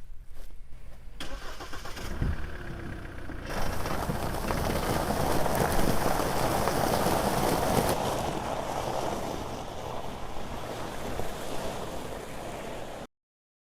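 An engine starting and then running, growing louder for a few seconds before easing off, and cutting off suddenly near the end.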